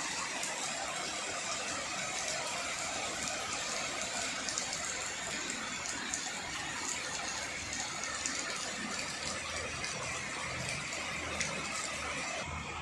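Heavy rain falling steadily: an even hiss with scattered light ticks of drops.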